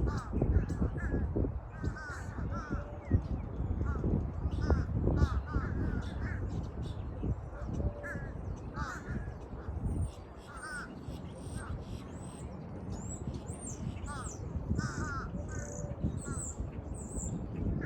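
Crows cawing among many small birds chirping and trilling, over a low rumble of wind or handling on the phone's microphone that is strongest in the first few seconds.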